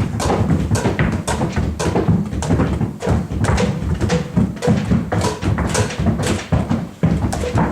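A group of people stamping, tapping and scuffing their feet on a floor in a free improvisation. The knocks and shuffles come thick and irregular, with no steady beat.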